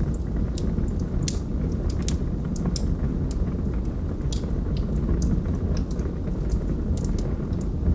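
Wood fire burning in a fireplace: a steady low rumble of flame with frequent irregular crackles and pops from the burning logs.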